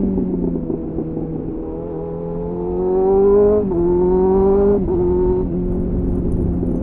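2001 Suzuki GSF 600 Bandit's inline-four through an aftermarket slip-on exhaust with a home-made dB-killer, heard from onboard. The engine note falls off the throttle, then climbs under acceleration. It drops sharply twice as the rider shifts up and settles to a steady pull near the end.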